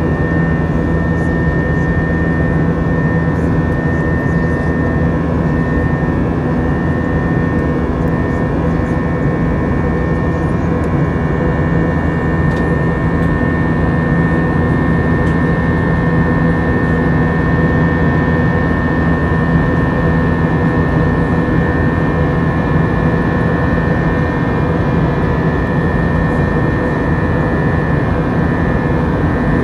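Steady cabin noise of an Airbus A321 in flight: the jet engines' drone with a few constant whining tones over a broad rush of air.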